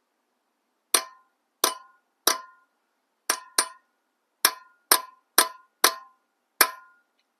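A hammer striking metal ten times at an uneven pace, each blow a sharp clang with a short ringing tail.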